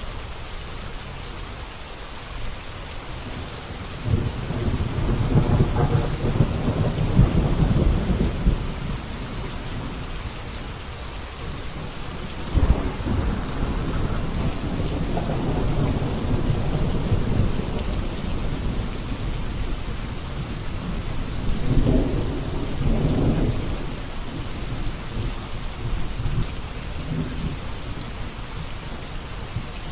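Steady rain with rolling thunder: a long low rumble begins about four seconds in, a sharper clap comes a little before halfway and rolls on for several seconds, and a shorter rumble follows past the two-thirds mark.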